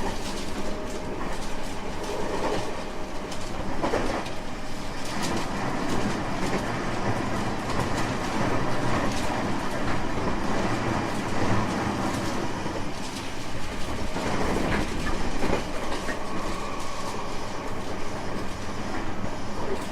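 Running sound heard inside a JR West 225 series 5000-subseries electric train: a steady rumble of wheels and rails with a knock every few seconds as the wheels pass rail joints.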